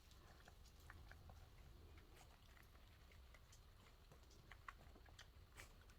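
Near silence with faint, scattered small clicks: dogs licking and chewing at the last of their food.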